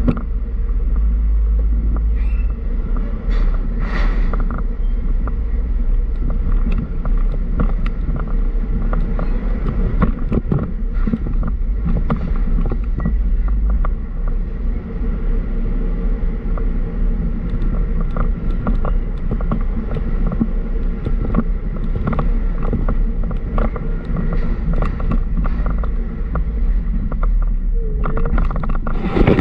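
Truck on the move, its engine and road noise a steady low drone, with frequent short knocks and rattles throughout.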